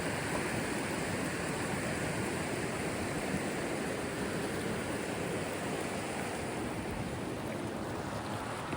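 Steady rush of river water over rapids, an even whooshing noise that eases slightly near the end.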